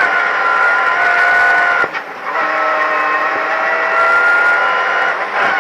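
Ford Fiesta ST rally car's engine, heard from inside the cabin, pulling hard along a fast stretch of stage. Its revs climb, with a brief drop for a gear change about two seconds in and another near the end.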